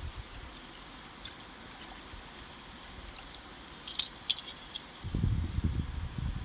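A few light clicks over a steady hiss, then wind buffeting the microphone with a low rumble from about five seconds in.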